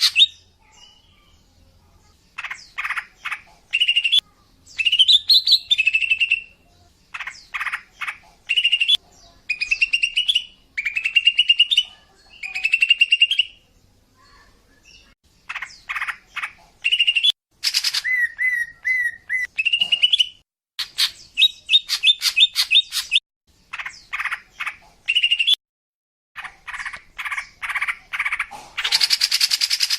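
Female greater green leafbird (cucak ijo) calling: short phrases of rapid chirps and trills, repeated every second or so with brief pauses, and a harsher, noisier call near the end.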